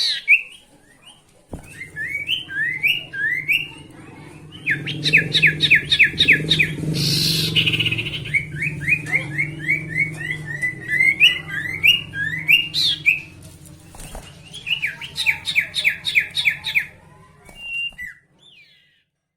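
A sirtu songbird singing vigorously: fast runs of sharp, rising chirps repeated in rapid bursts, over a low steady hum. The song stops shortly before the end.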